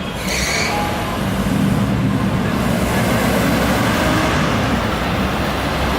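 Street traffic of classic cars: engines running and vehicles passing in a steady rumble that grows louder about a second and a half in. A brief high tone sounds near the start.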